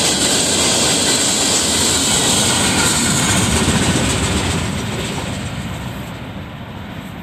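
Freight train gondola cars rolling past on the rails, a steady wheel and rail noise that fades away from about four and a half seconds in as the tail end of the train moves off.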